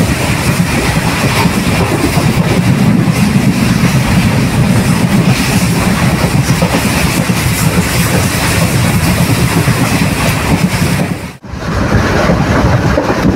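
ICF passenger coach running at speed: a steady loud rumble and clatter of wheels on the rails. The sound drops out suddenly for a moment near the end, then carries on.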